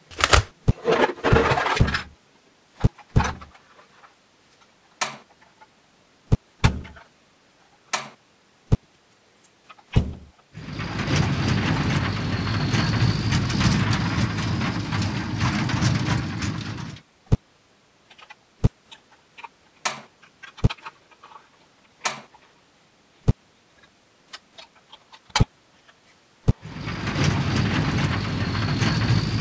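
Sharp clicks and knocks of plastic toy pieces being handled, and twice a small battery-powered toy motor running with a steady buzzing whirr, for about six seconds in the middle and again near the end.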